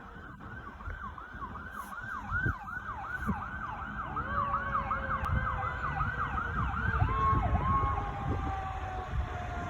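Pierce fire engine's siren sounding a fast yelp, about three sweeps a second, switching to two slower sweeps about seven seconds in, over engine rumble. Beneath it a second, steadier siren tone slowly falls in pitch through the second half, and the whole sound grows louder as the engine approaches.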